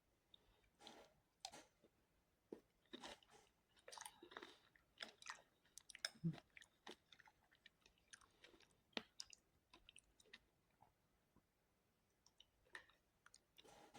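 Close-miked chewing with crunchy bites: irregular crackling strikes and short crunches, busiest in the first half and thinning out to a quiet stretch before picking up again near the end.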